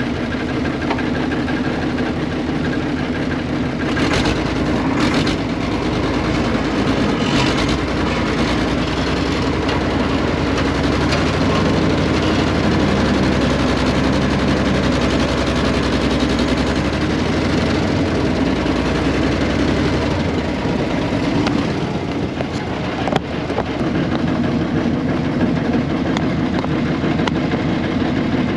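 Air-cooled Deutz diesel engine of a 1970s excavator running steadily, with a few metallic clanks several seconds in and a change in the engine note about two-thirds of the way through.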